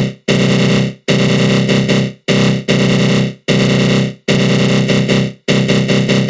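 Synthesized attack-growl sound effect from the GMS synth with a flanger: a harsh, buzzing low growl. It repeats in bursts of about half a second to a second that cut in abruptly and fade out quickly into brief gaps.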